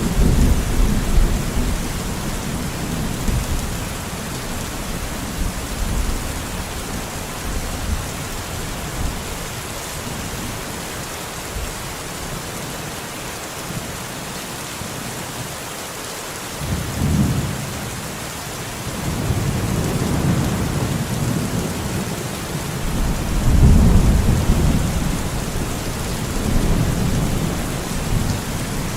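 Steady heavy rain falling in a forest, a constant hiss, with low rolling rumbles of distant thunder swelling at the start, briefly about halfway through, and again over the last third.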